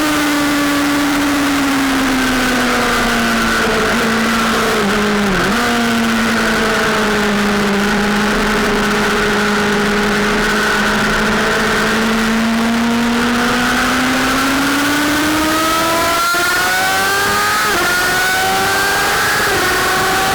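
Sportbike engine running at speed on a race track. The revs fall over the first few seconds, dip and catch briefly about five seconds in, and hold nearly steady through the middle. They then climb again from about fifteen seconds, with a couple of gear changes near the end.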